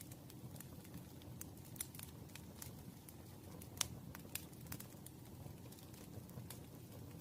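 Campfire burning: a low steady rumble of the flames with irregular sharp crackles and pops from the wood, one louder pop a little before halfway.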